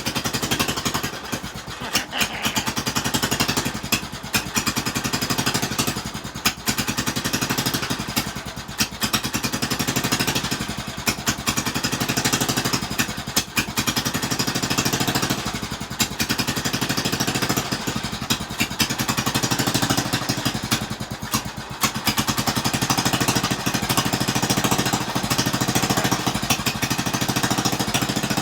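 Small tractor engine running with a fast, even firing beat, its level swelling and easing every couple of seconds.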